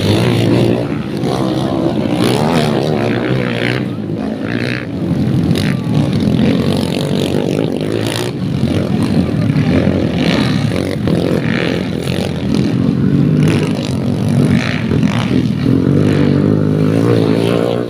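Dirt-bike engines running and revving on a race track, a loud continuous drone that rises and falls.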